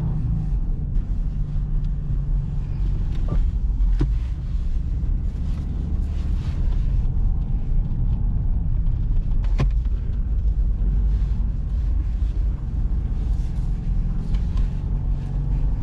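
Steady low rumble of a Subaru WRX on the move, heard from inside the cabin: engine and tyre noise on a snowy road. A few short clicks come through about three, four and ten seconds in.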